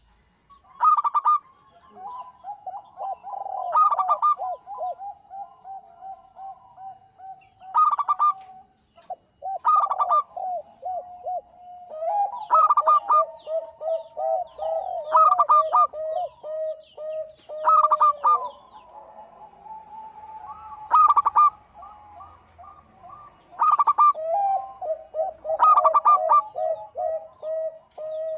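Zebra doves (perkutut) cooing: fast runs of short rolling coo notes, broken every two to three seconds by a louder, higher call, the phrases overlapping one another.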